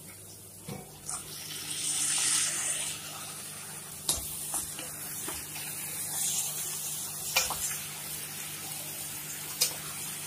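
Raw chicken pieces going into hot oil and fried onions in a clay pot: a rush of sizzling swells about a second and a half in, then settles to a steady sizzle. Short knocks and scrapes come through it as a spatula stirs the chicken against the clay pot.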